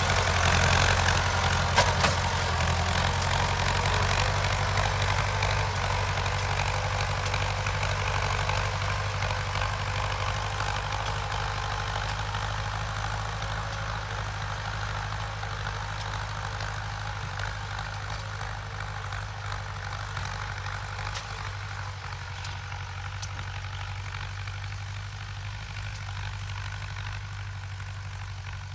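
Ford 6600 tractor's three-cylinder diesel engine running steadily under load while ploughing, fading gradually as the tractor moves away.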